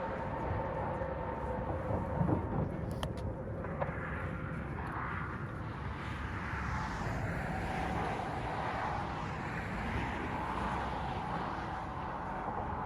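Steady rumbling background noise with a faint steady mechanical hum.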